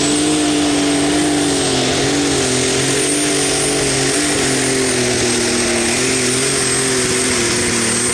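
Super stock pulling tractor's turbocharged diesel engine running flat out down the pull track. A high, steady turbo whistle rides over the engine's drone, whose pitch wavers only slightly.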